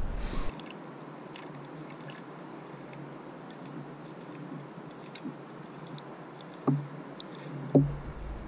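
A person chewing food, quiet mouth noises with faint small clicks, and two short louder sounds, one about two-thirds of the way through and one near the end.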